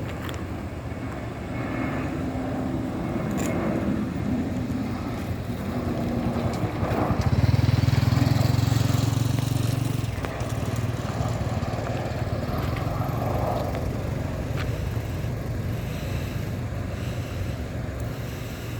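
Jet engines of an Airbus A320 on its landing, a steady rumble that swells to its loudest about seven seconds in and eases off after about ten seconds.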